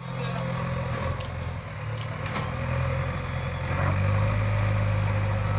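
Heavy diesel engine of earthmoving machinery running steadily with a low hum, growing louder and fuller about two-thirds of the way through.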